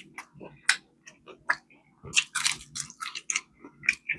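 Close-up chewing of crispy fried chicken: a string of irregular crisp crunches and bites, coming thicker in the second half.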